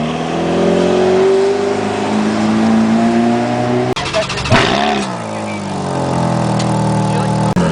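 Sports car engines running, with the pitch slowly climbing at first. A little after four seconds in there is a quick rev blip that rises and falls. Abrupt changes at about four seconds and near the end suggest cuts between different cars.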